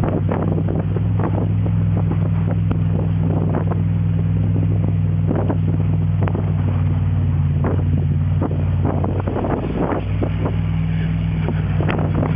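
Truck engine running at a steady low pitch, with scattered clicks and knocks throughout.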